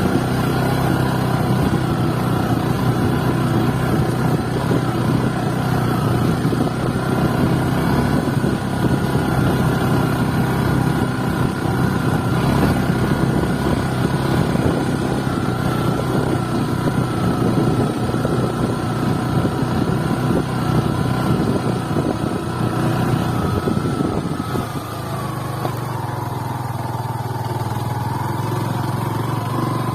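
Motorcycle engine running steadily while under way. About 25 seconds in, the engine note drops and eases off, then rises again near the end.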